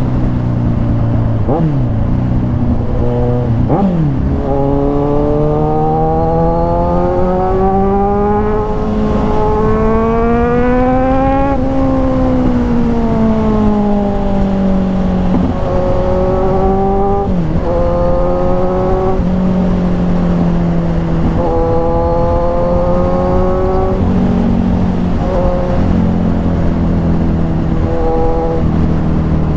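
Kawasaki Ninja 1000's inline-four engine through an aftermarket SC-Project exhaust, under way. The revs climb and then drop sharply at gear changes, twice early on. A long pull builds to about halfway, then the revs fall off and rise again several times as the throttle is opened and closed.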